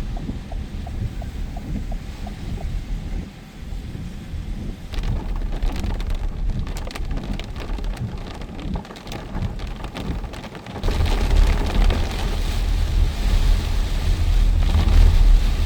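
Heavy rain in a wind storm. Drops tick and patter over a low rumble, then about eleven seconds in it jumps louder to a steady roar with a deep rumble.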